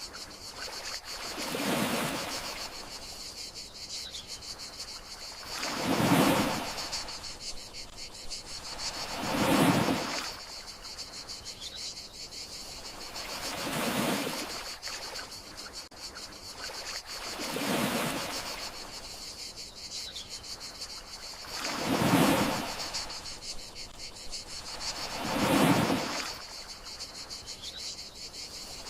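Gentle sea waves washing in and drawing back, one soft swell about every four seconds, over a steady high chirring of crickets.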